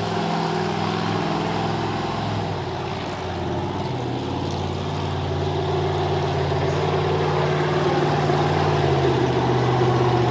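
Monster truck engine running at a steady low speed, its pitch dropping about two and a half seconds in and then holding.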